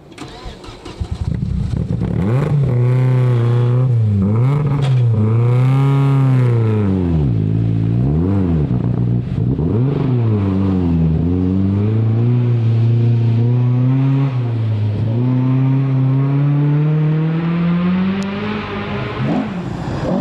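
Rally car engine driven hard, revs repeatedly rising and dropping with gear changes and lifts, then one long steady climb in revs near the end.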